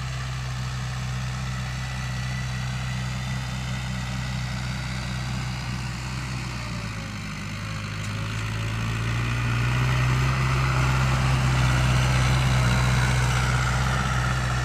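Mahindra 575 DI tractor's diesel engine running steadily. It dips slightly around the middle, then grows louder for the last few seconds.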